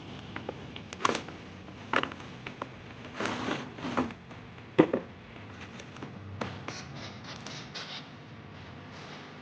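Close handling noises: a string of clicks, knocks and scrapes, the loudest knock a little before the middle, then a few light ticks.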